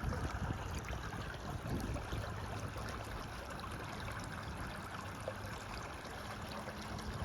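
Creek water running steadily, with a few faint clicks.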